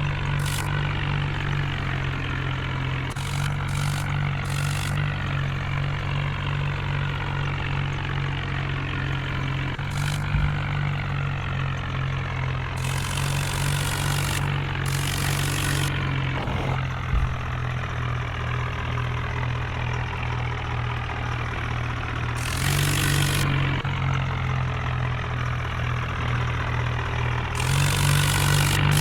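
Heavy diesel engine running steadily at low speed. A few short bursts of hissing noise come over it, one in the middle and one near the end.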